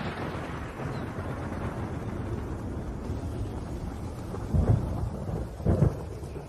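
Thunder rumbling low and fading out, with two short, heavy booms about four and a half and six seconds in, over steady rain.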